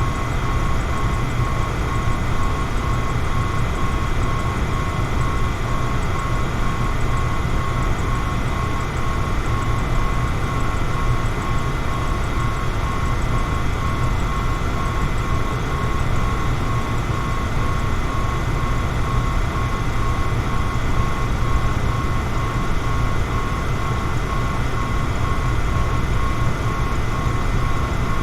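Electric fan running steadily: an even whir with a strong low rumble and a faint, evenly pulsing whine.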